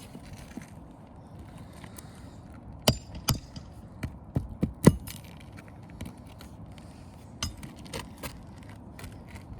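Short, sharp metallic clicks and knocks of a tool working loose nails and ridge-cap shingles on a roof: a quick run of them about three seconds in, the loudest near five seconds, then a few scattered taps.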